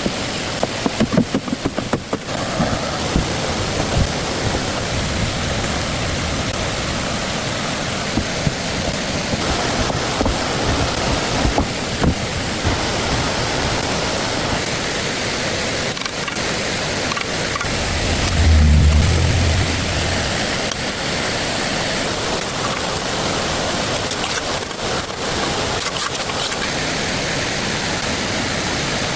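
Steady rush of flowing water, with a brief low rumble about two-thirds of the way through.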